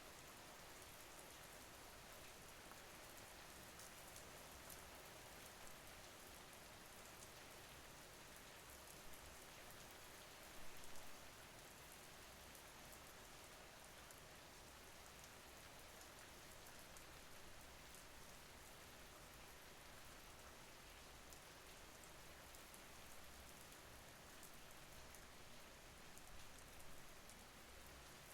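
Soft, steady rain, an even hiss with fine scattered drop ticks, with one brief louder swell about eleven seconds in.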